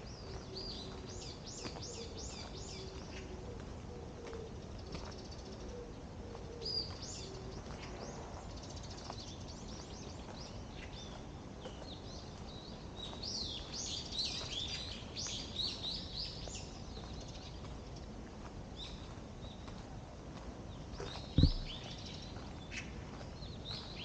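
Several small songbirds chirping and twittering in quick runs of high notes, busiest about halfway through, over a steady low background rumble. A single loud, dull thump comes near the end.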